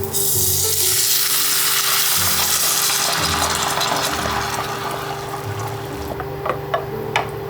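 Food sizzling in a hot pan: a loud sizzle starts suddenly and slowly dies down over several seconds, with a few light utensil clicks near the end.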